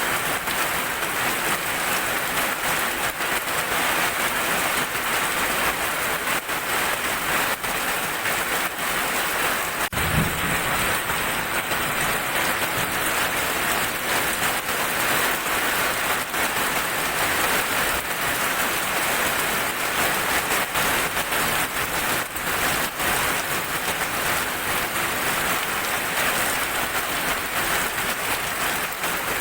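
Heavy rain falling steadily, with a short low rumble of thunder about ten seconds in.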